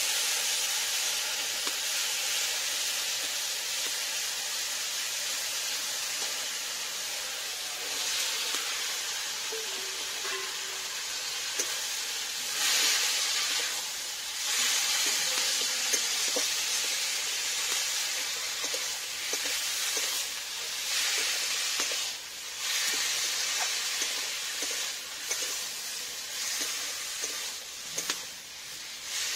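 Food sizzling and frying in a metal wok over a wood fire, stirred with a metal spatula. It starts as a steady hiss from the spice-and-onion mixture; from about halfway the sizzle comes in louder surges as chopped bottle gourd is turned over in the hot oil.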